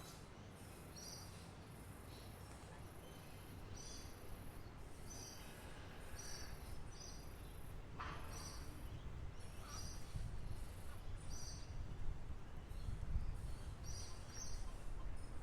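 Songbirds chirping, one bird repeating a short high chirp roughly every second, over a high insect-like buzz that comes and goes. A low rumble of background noise builds up through the second half.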